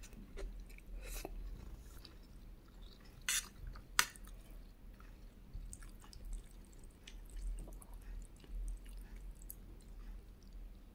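Close-miked chewing of a mouthful of rice and fried egg, with small wet, crackly mouth sounds. Two sharper clicks stand out about three and four seconds in.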